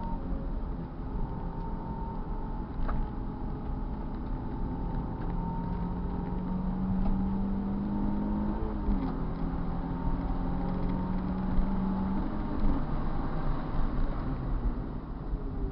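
Car engine running under way with road and wind noise. Its steady pitch drops about nine seconds in and holds lower for a few seconds.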